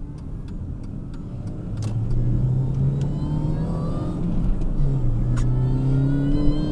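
Supercharged 1.6-litre four-cylinder engine of a first-generation MINI Cooper S, heard from inside the cabin while accelerating. Its pitch climbs, drops at a gear change about four and a half seconds in, then climbs again. It pulls through without a dead spot now that the supercharger bypass valve has been replaced.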